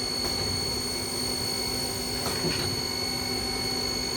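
Haas SL-10 CNC lathe spindle running steadily at 3,000 RPM, a constant high-pitched whine from the spindle drive, with a faint click or two about halfway through.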